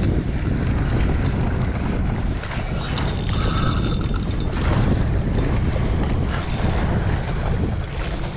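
Steady wind buffeting the microphone, with ocean waves around a jet ski at sea.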